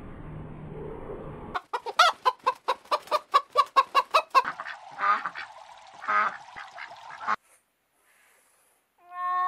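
Poultry calling: a rapid run of clucking or quacking calls, about five a second, then two louder single calls. After a short silence a held, steady pitched call starts near the end. Before the calls begin there is a low steady hiss.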